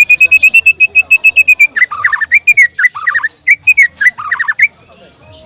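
White-rumped shama singing loudly: a fast run of even whistled notes, about nine a second for nearly two seconds, then a string of varied, sweeping whistled phrases that stop shortly before the end.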